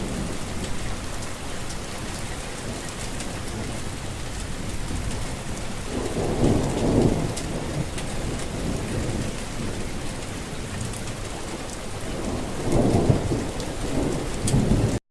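Steady rain with low rumbles of thunder, one about six seconds in and another near the end.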